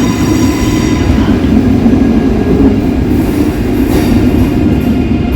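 Train moving along a platform track: a loud, steady rumble, with faint high-pitched tones that fade out about a second in.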